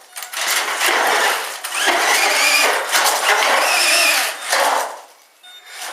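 Electric motor and geartrain of a 1/10 scale HBX RC monster truck whining under throttle, the pitch rising and falling as it drives, over a gritty scrabbling of tyres on rough ground. The sound falls away about five seconds in.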